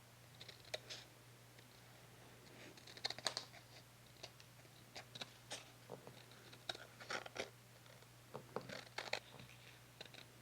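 Scissors cutting through paper: short runs of crisp snips with pauses between them.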